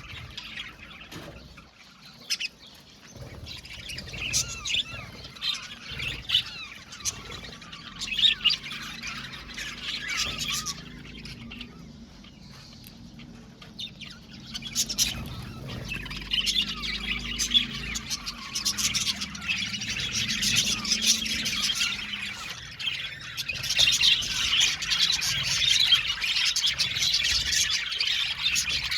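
A flock of budgerigars chirping, warbling and squawking, with sparse calls at first and a dense, continuous chatter from about halfway through.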